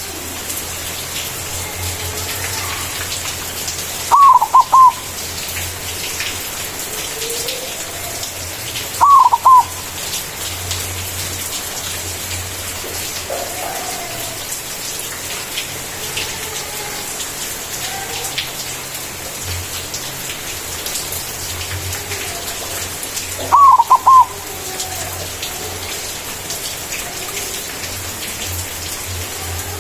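Zebra dove (perkutut) singing its cooing song: three short phrases of quick falling notes, two close together in the first third and one about two-thirds of the way in, over a steady hiss.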